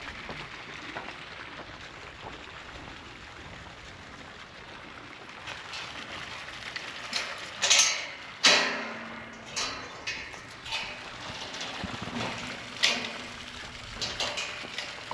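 A string of knocks and scrapes, the loudest two about eight seconds in, the second leaving a short metallic ring, over a steady faint hiss.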